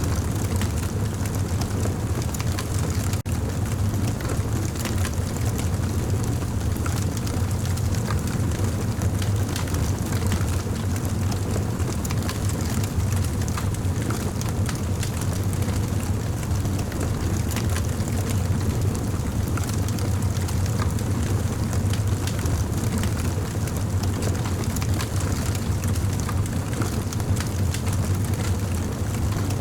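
Wood campfire burning: a steady low rumble from the flames, with frequent small crackles and pops throughout.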